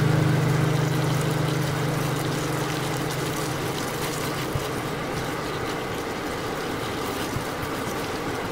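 Chopped vegetables sizzling in hot oil in a frying pan as they are stir-fried with a spatula, with faint scrapes and taps. A low held note of background music fades out about four seconds in.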